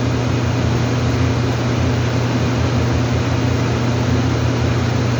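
Steady loud mechanical drone, a low hum over an even rushing noise, like a fan or running machinery, with no change in pitch or level.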